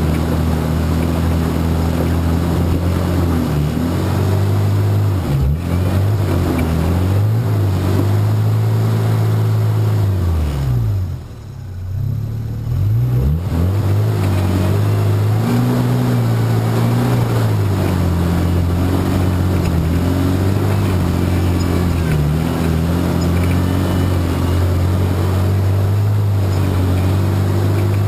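Off-road 4x4's engine running as it crawls up a rocky trail, its revs rising and falling. About eleven seconds in the engine note drops away for a second or two, then comes back up.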